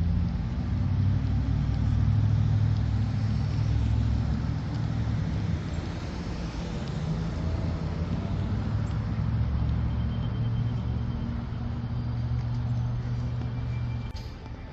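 Steady low rumble of a motor vehicle running, with engine-like tones under road noise; it drops off sharply about fourteen seconds in.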